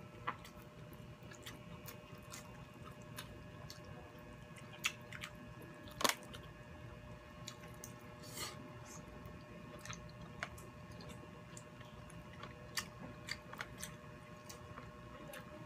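Two people eating baked shrimp and rice with their hands: chewing and mouth noises with scattered short clicks and smacks, the sharpest about six seconds in.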